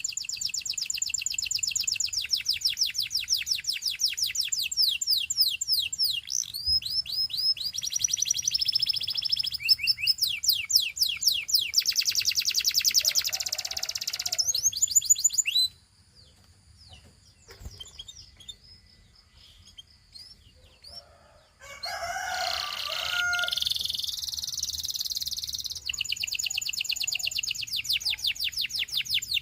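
Gloster canary singing: long tours of rapid repeated high notes, switching to a new trill every few seconds. About halfway through the song stops for some six seconds, leaving only a few faint calls, then resumes with a scratchier phrase and more fast trills.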